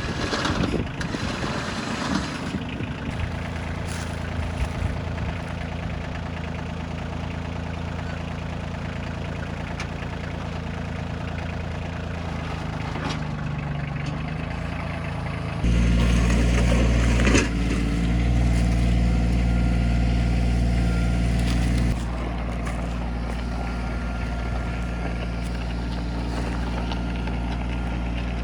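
Kioti CK2610 compact tractor's three-cylinder diesel engine running steadily; it gets louder for about six seconds midway, then eases back to a steady run.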